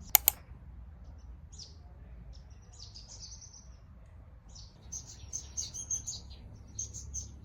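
Small birds chirping in short, scattered calls that grow busier after about five seconds, over a faint low steady rumble. Two sharp clicks come right at the start.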